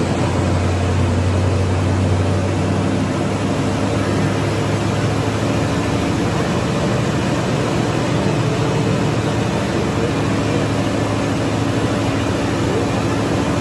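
Chevrolet Bel Air engine running at a steady speed on a chassis dyno, under the steady rush of a large cooling fan. The engine's low hum weakens a few seconds in, and the engine is not revved.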